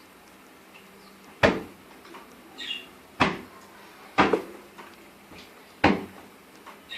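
A few loud, sharp knocks a second or two apart, one of them doubled, with faint short budgerigar chirps between them.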